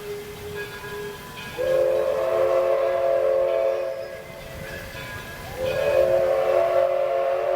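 Steam locomotive whistle with several notes sounding together, blown in two long blasts: the first about one and a half seconds in, the second about two seconds after it ends and still sounding at the end. Each blast swells in with a slight rise in pitch.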